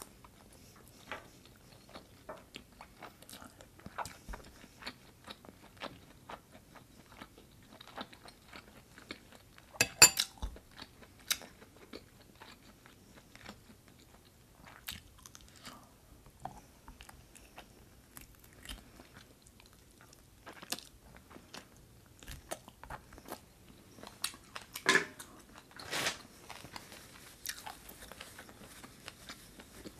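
Close-miked chewing of food: a steady run of small wet mouth clicks and soft crunches. There are louder clicks about ten seconds in and again near twenty-five seconds.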